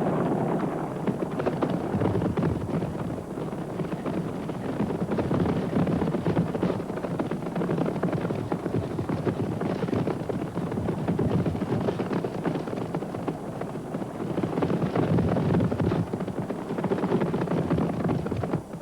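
A running herd of wildebeest: a dense, continuous drumming of many hooves, rising and falling in strength.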